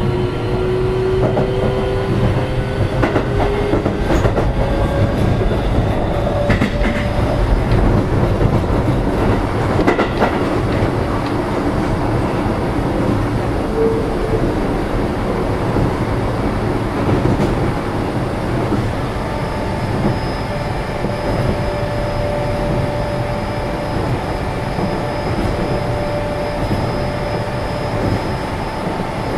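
Running sound inside a Keio 7000-series train car at speed: a steady rumble of wheels on rail with clickety-clack, and a whine rising in pitch over the first few seconds. A steady hum settles in about two-thirds of the way through.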